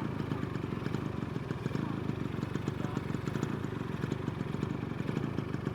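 Motorcycle engine running steadily underway, a low rumble with rapid even pulsing, heard from on the bike.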